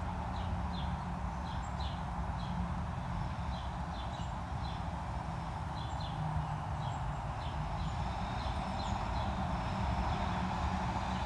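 Outdoor field ambience: a steady low rumble, with a small bird giving short high chirps in loose runs, several a second at times and with pauses between.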